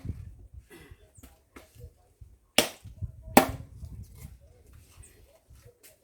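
Firewood being chopped: two sharp, loud strikes about a second apart, with quieter knocks and rustling of wood and branches between them.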